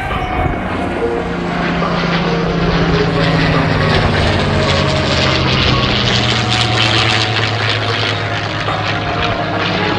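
Propeller aircraft's piston engine drone as the plane flies past; the engine note drops in pitch partway through as it passes.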